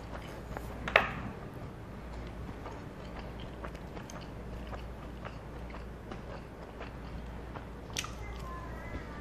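Close-miked chewing and mouth sounds of a person eating, with many small clicks. There is a sharp click about a second in and another near the end.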